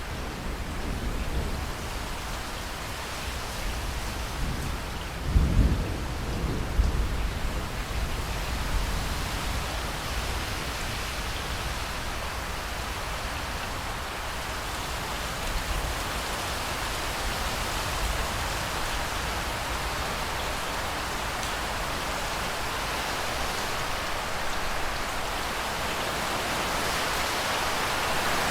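Steady rain with a low rumble of thunder during the first several seconds, loudest about five and a half seconds in. The rain grows slightly louder near the end.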